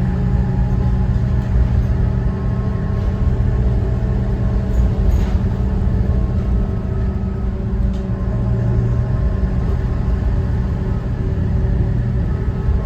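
Cummins ISB 6.7 diesel engine of a Thomas Saf-T-Liner C2 school bus running steadily under way, with a low rumble, road noise and a couple of faint rattles.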